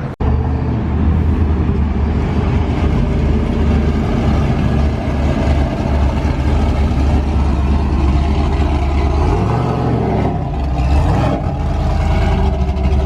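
A motor vehicle's engine running loudly with a deep, steady rumble. Its pitch dips and rises briefly about ten seconds in.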